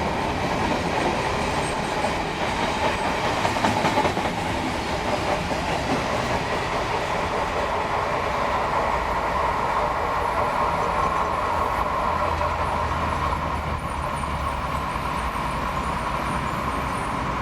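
Freight train of empty container flat wagons rolling past, steel wheels clattering over the rails with a steady rumble.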